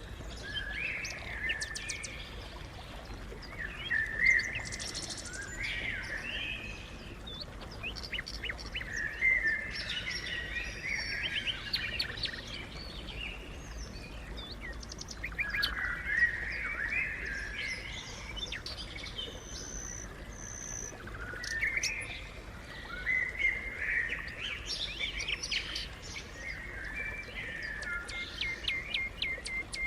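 Sparrows chirping, several birds at once, in clusters of quick chirps with short lulls between.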